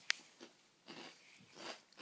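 A small child chewing a snack close to the microphone: a sharp click at the start, then a few soft, irregular crunching mouth noises.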